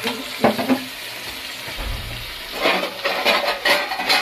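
Steady sizzle of frying, with a couple of clicks. From about two and a half seconds in, a wooden spoon stirs bubbling masala in a pot, about four strokes a second.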